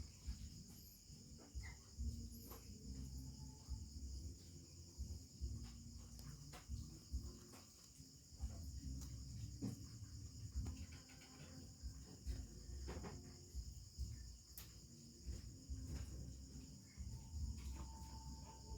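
Faint, steady high-pitched chirring of crickets, with scattered light clicks and knocks of handling.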